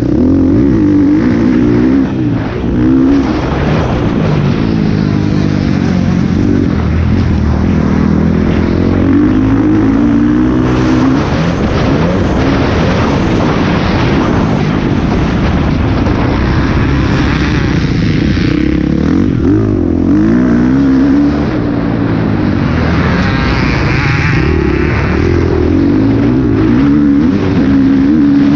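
Motocross bike engine under race throttle, its pitch climbing and dropping repeatedly as it accelerates and shifts through the gears, with a brief lift off the throttle about two seconds in.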